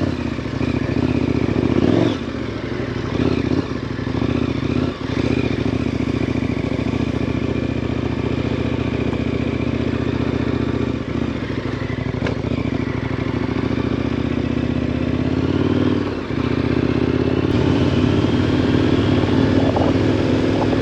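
KTM 1090 Adventure R's 1,050 cc LC8 V-twin engine running at low speed under throttle, its revs dipping briefly a few times and rising for a stretch near the end.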